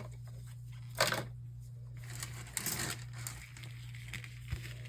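Monitor parts being handled: a knock about a second in, then rustling and crinkling, a few small clicks near the end, over a steady low hum.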